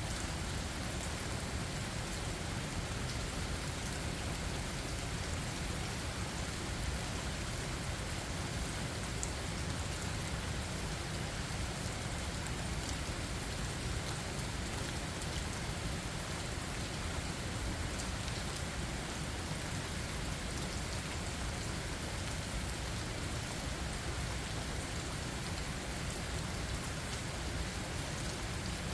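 Steady rain falling, with scattered drop hits and no break or swell.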